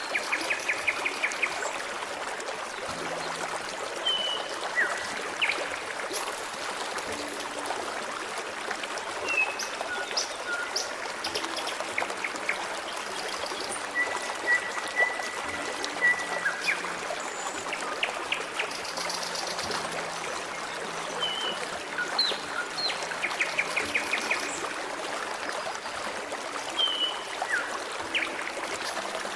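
Forest stream trickling and babbling steadily, with small birds singing over it. Short whistled chirps and quick trills come every few seconds, and one held whistle comes about halfway through.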